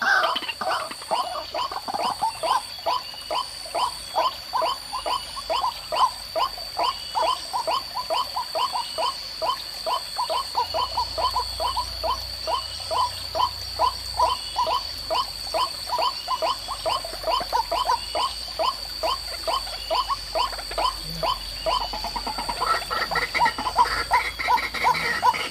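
White-breasted waterhen calling: a long, even series of short croaking notes, about three a second, over a steady high insect-like whine. Near the end the calls shift higher in pitch.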